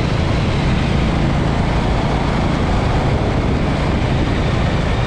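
A motorcycle riding at steady speed: a constant engine drone under heavy wind noise on the microphone.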